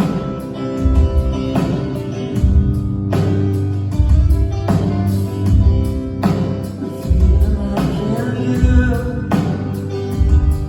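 Rock band playing live over a venue PA: electric guitar and bass over drums, with a heavy low beat about every one and a half seconds.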